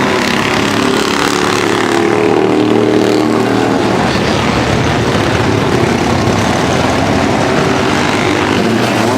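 Loud vintage racing engines running at speed on the track: a steady, pitched engine note for the first few seconds, then a denser, rougher engine noise.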